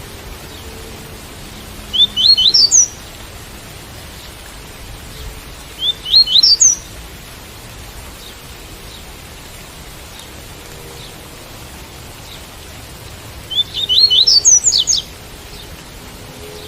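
Double-collared seedeater (coleiro) singing its tui-tui song: three short phrases of quick rising whistled notes, about 2, 6 and 14 seconds in, the last one longest. Steady rain hiss runs beneath.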